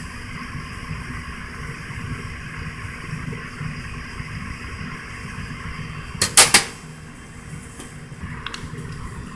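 Steady low background hum, with a brief clatter of a few quick sharp knocks about six seconds in and a couple of faint clicks after it.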